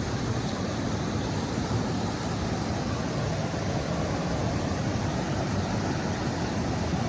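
Steady rushing of a fast, strong river current, an even noise with no breaks.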